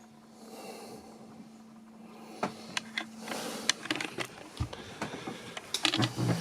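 Scattered clicks and knocks, growing busier from about halfway, with a low thump near the middle and a faint steady hum through the first half.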